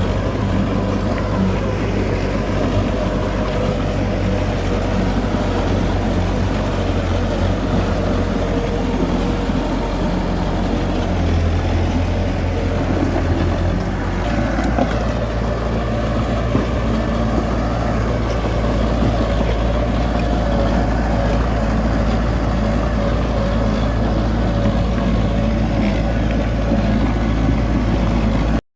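Heavy diesel engine of earthmoving machinery running steadily under load, its pitch shifting a little about eleven seconds in and again about fourteen seconds in.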